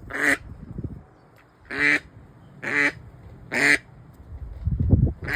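A duck quacking, about five short harsh quacks roughly a second apart. A low rumbling noise comes near the end.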